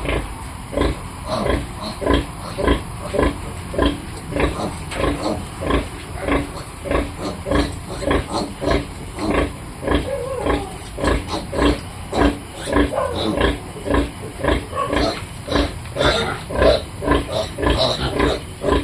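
Piglets calling over and over while feeding, short grunts and squeals coming about two to three a second without a break.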